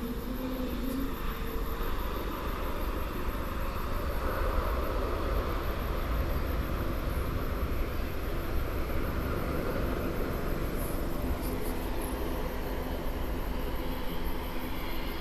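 Jet airliner's engines running as it lands: a steady, deep rumble that swells a little through the middle and eases slightly near the end.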